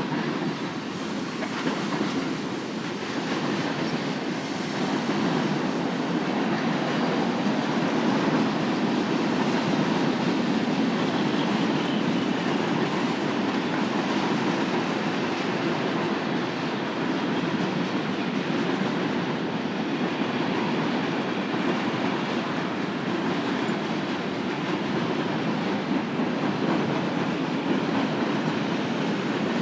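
Union Pacific manifest freight train rolling past, its freight cars' wheels on the rails making a steady rumble that builds over the first few seconds and then holds.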